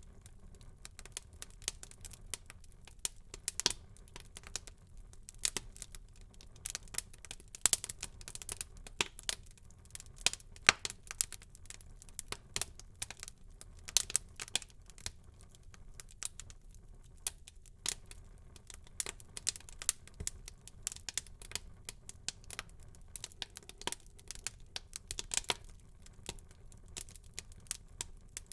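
Wood fire burning in a fireplace, with irregular crackles and sharp pops over a faint low hiss.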